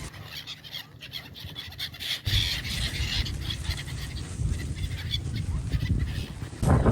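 Birds calling in short scattered notes, with a low rumble starting about two seconds in.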